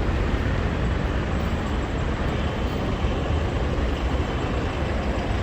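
Steady city street traffic noise: a low rumble with a hiss over it.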